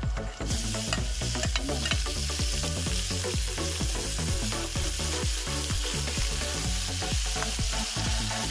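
Diced pork hitting hot oil in a wok with garlic and onion: a frying sizzle that starts suddenly about half a second in and keeps up, with a metal spatula scraping and stirring the meat against the pan.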